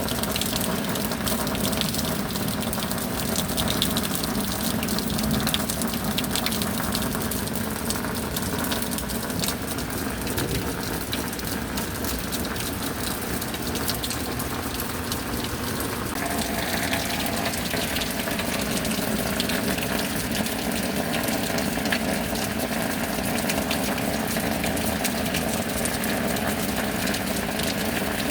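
Steady heavy rain with water gushing, over a low steady hum that changes pitch a little past halfway.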